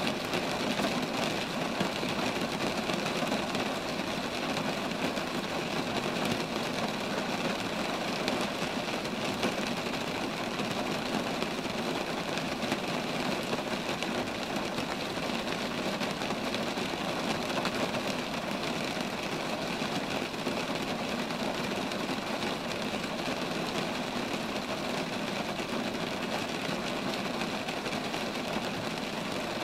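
Steady rain falling on roadside trees.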